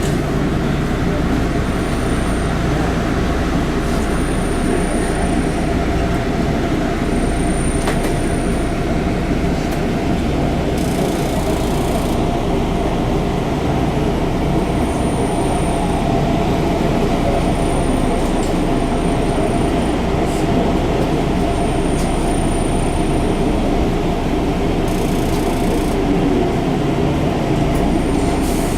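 Enshu Railway 30 series electric railcar running along the line, heard from inside the car: a steady rumble of wheels and running gear with a constant mid-pitched tone. Short high-pitched squeaks recur every two to three seconds.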